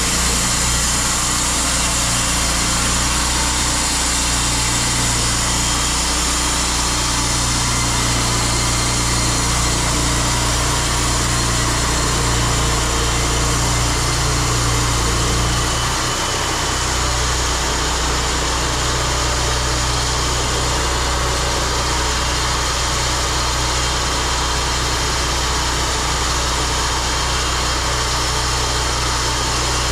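Engine running steadily, its note shifting lower about sixteen seconds in.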